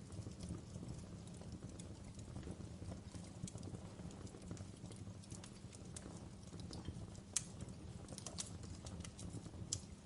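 Fire crackling: irregular sharp pops and snaps over a low steady rumble. The loudest pop comes about seven seconds in, with another strong one near the end.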